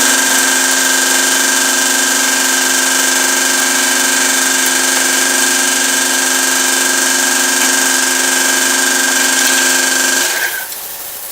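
Power tool running steadily at one pitch, with a strong hiss, while driving the wheel-bearing puller; it stops abruptly about ten seconds in.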